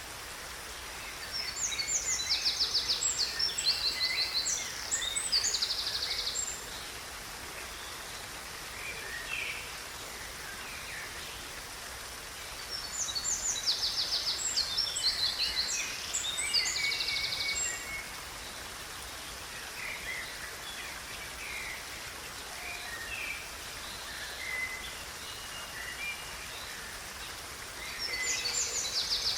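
A songbird singing long phrases of fast, high trills and chirps: one phrase starting about a second in, another around the middle, a third starting near the end, with quieter scattered chirps between. A steady hiss runs underneath.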